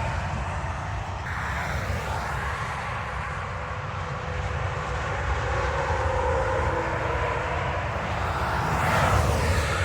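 Interstate traffic with tractor-trailers passing: a steady drone of diesel engines and tyre noise. It swells to its loudest as a truck passes close near the end, then cuts off abruptly.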